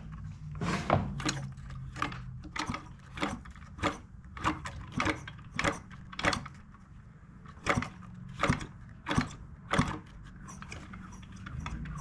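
Hands working on the opened engine of an Echo PB-265L backpack blower: a run of sharp mechanical clicks and knocks, about two or three a second, with a pause around six to seven seconds in.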